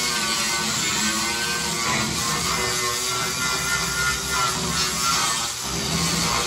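Angle grinder running steadily against sheet metal, grinding down weld seams on a car body panel.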